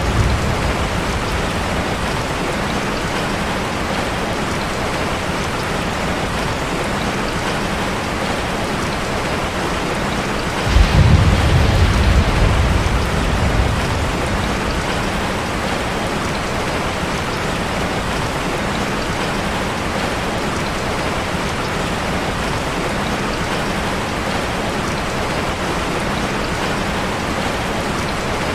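Steady rain drumming on a metal roof, with a low rumble of thunder that starts suddenly about eleven seconds in and dies away over a few seconds.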